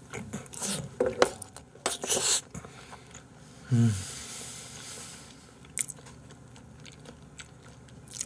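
A person chewing a mouthful of salmon close to the microphone, with wet mouth clicks and smacks over the first couple of seconds. About three and a half seconds in comes a short low hum that falls in pitch, then a breath out, and a few faint clicks of chewing follow.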